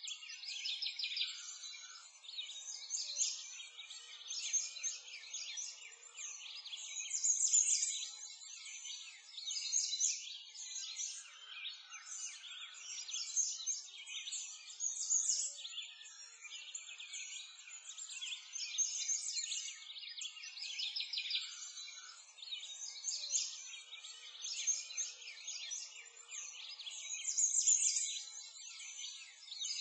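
A dense chorus of many birds chirping and singing at once, all high-pitched, swelling and fading every few seconds.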